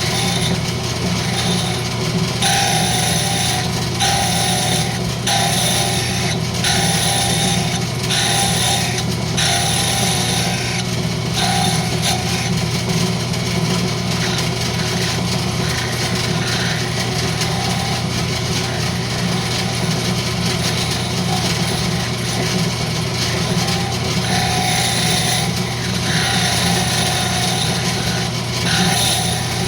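Wood lathe running with a steady motor hum while a turning tool cuts the spinning rosewood in short repeated passes: a scraping hiss comes about every second or so during the first dozen seconds, then again near the end.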